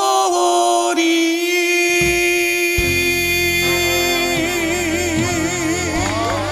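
A man sings the final held note of a Korean trot ballad in a clear, high, light voice, with vibrato setting in over the second half. The band's accompaniment swells in beneath him about two seconds in.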